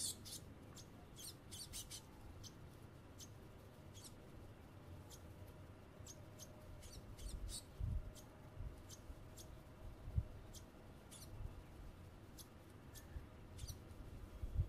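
Scattered short, high, thin calls of tits (blue tits and great tits) at a lard feeder, with a few dull low thumps.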